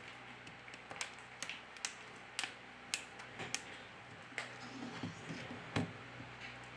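A quiet series of sharp clicks and taps, roughly two a second for a few seconds, followed by a few duller knocks.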